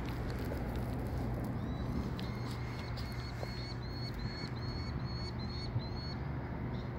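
A bird gives about a dozen short, high chirps in an even series over about four seconds, over a steady low rumble. A Saint Bernard gnaws a large bone, with a few faint clicks.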